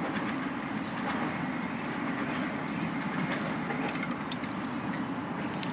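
Steady low mechanical rumble, like a distant engine or passing vehicle, with faint scattered clicks over it.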